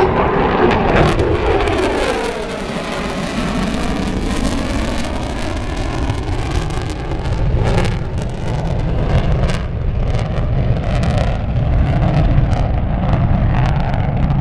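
Rockwell B-1B Lancer's four F101 afterburning turbofans in a high-speed flyby. The jet roar falls sharply in pitch as the bomber passes, then settles into a deep, continuing rumble as it moves away.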